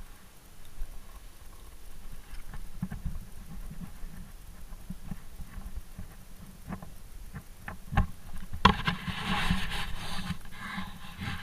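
Bicycle rolling over snow: irregular crunches and clicks over a low rumble, with a louder, hissing stretch of crunching about nine seconds in that lasts a couple of seconds.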